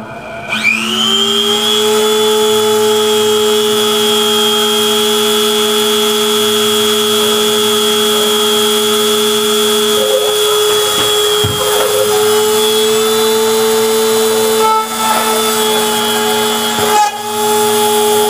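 Router spindle on a homemade desktop CNC machine spinning up about half a second in: a rising whine that settles into a steady high whine. It then runs at speed while milling holes in a plastic box, with brief wavers in the tone in the second half.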